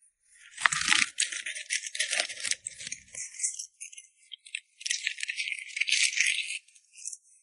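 Dense rattling of many small hard pieces, in two bursts: the first starts about half a second in and lasts some three seconds, and the second starts about four and a half seconds in and lasts about two seconds.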